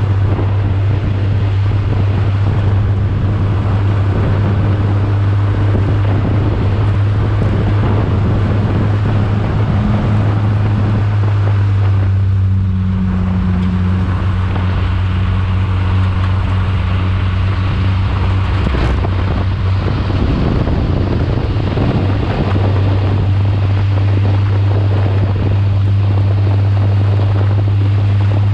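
Race car engine running hard at fairly steady revs, heard on board with wind rushing over the microphone; the note changes briefly about twelve seconds in and again around twenty seconds.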